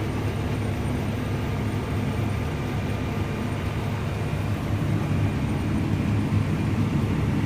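Tractor's diesel engine running steadily, a low even drone.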